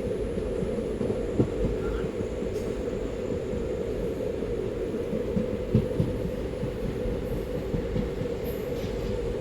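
Moving train running on the track: a steady low rumble with a few short sharp knocks, the loudest about a second and a half in and two close together about six seconds in.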